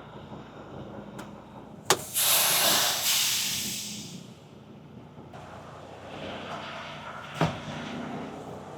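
A click, then a loud hiss of compressed air being let out of a semi truck's air brake system, fading away over about two seconds. Another sharp click comes a few seconds later.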